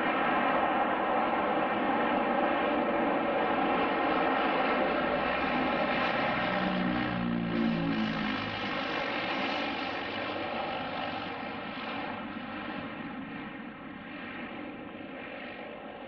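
Aircraft passing low overhead, its engine drone loud for the first half and then slowly fading as it moves away.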